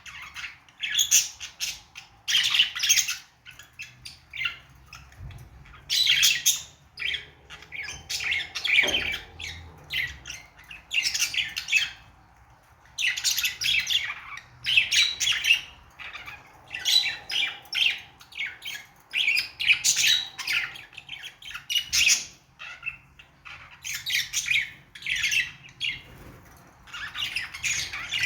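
Budgerigars chattering and chirping in quick, scratchy warbles, coming in bursts of a second or two with short pauses between: the contented warbling of happy budgies.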